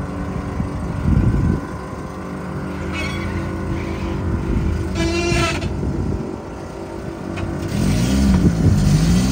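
Volkswagen Saveiro G4 pickup's engine running at low revs while the truck is manoeuvred slowly, with a brief high squeal about five seconds in. Near the end the revs rise and fall twice.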